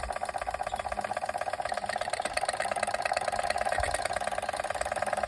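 Small oscillating-cylinder model steam engine, a Machinator Steamfire, running fast under steam with a rapid, even beat.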